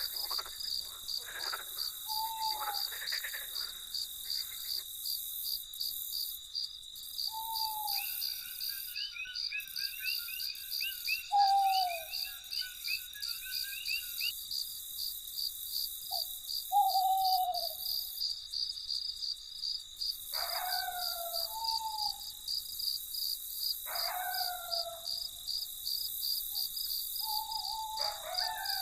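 Night chorus of crickets chirping in a steady, fast pulse, with frogs croaking every few seconds and short falling call notes between. A warbling trill joins for several seconds in the middle.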